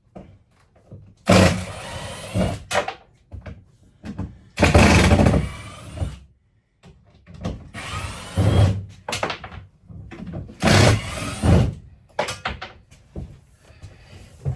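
Wooden RV closet wall and paneling being wrenched and pried loose by hand. It gives four heavy bouts of cracking, creaking and scraping about every three seconds, with smaller knocks in between and near the end.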